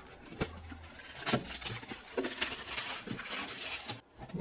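Packaging being handled and opened: a run of clicks and knocks with rustling and crinkling in between.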